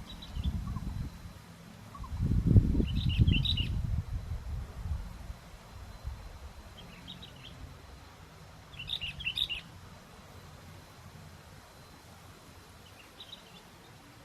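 Sooty-headed bulbul giving short bursts of chirpy call notes, five times, a few seconds apart. Strong wind buffets the microphone with a low rumble, loudest from about two to four and a half seconds in.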